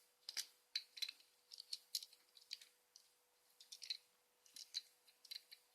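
Light plastic clicks and snaps of a Super Wings Jett transforming toy plane being handled and folded into shape, irregular, a couple a second.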